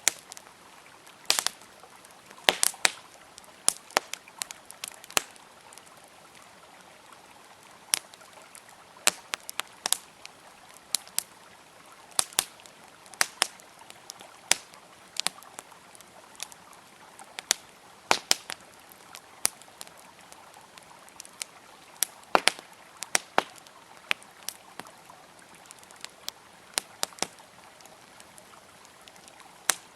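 Campfire crackling: irregular sharp pops and snaps of burning wood, several a second in clusters, over a steady hiss of flowing river water.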